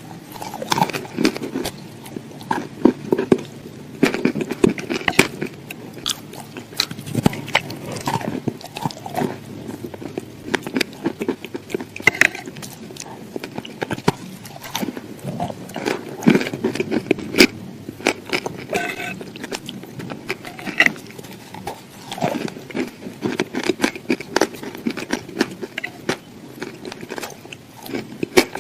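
A person biting and chewing crunchy food close to the microphone: a dense, irregular run of sharp crunches and crackles.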